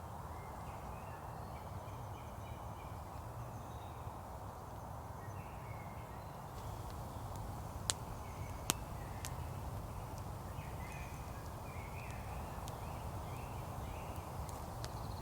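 Steady woodland background hiss with a bird calling in short repeated phrases, and two sharp taps close together about eight seconds in.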